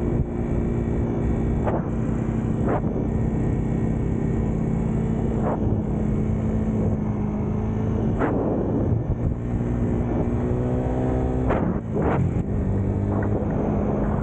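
Small motorcycle engine running at a steady cruising speed, with wind rushing over the microphone. A few brief swishes cut through, and the engine note shifts about twelve seconds in.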